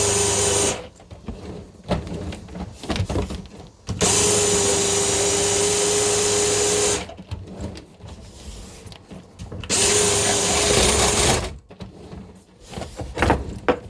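Electric drain-cleaning machine motor running in three bursts of a few seconds each, switched on and off while the cable is worked into a blocked sink drain, with knocking and clatter between the bursts.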